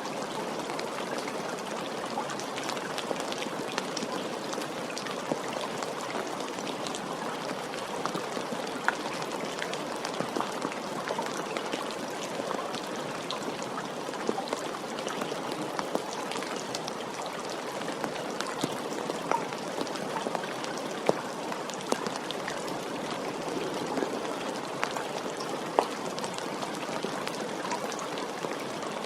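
Steady rain with many separate drops ticking sharply on a hard surface.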